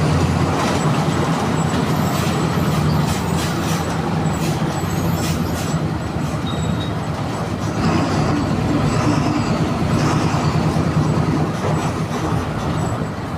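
A VW 17-230 EOD city bus's MWM 6.12 TCE six-cylinder turbodiesel running with a steady low drone, with scattered clicks and rattles in the first half.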